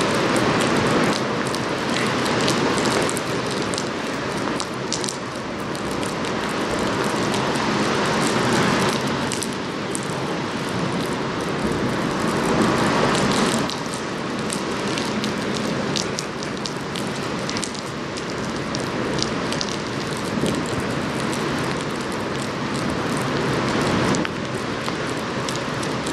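Steady rain, with many small drop ticks close to the microphone over an even rushing noise.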